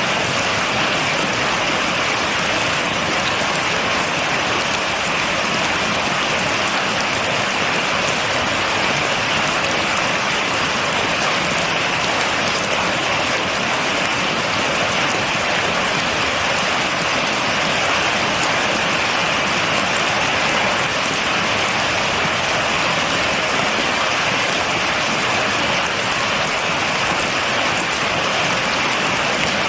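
Steady rain, without thunder, with dense drops pattering on a surface.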